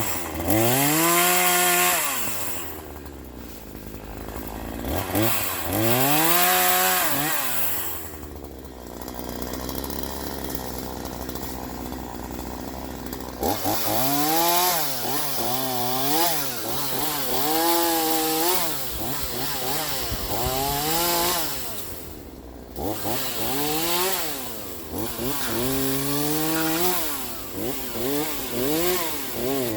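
Troy-Bilt TB4218 42cc two-stroke chainsaw engine revving up and dropping back. It makes two long revs in the first eight seconds, settles to idle for a few seconds, then gives a string of quick rev blips every second or two.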